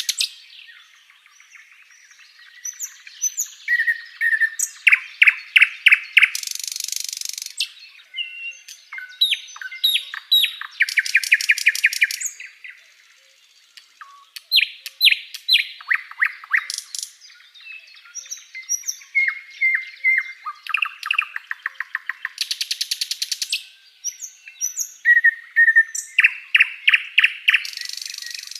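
Sikatan londo flycatcher singing: repeated phrases of quick, high chirping notes and fast buzzy trills, with short pauses between phrases.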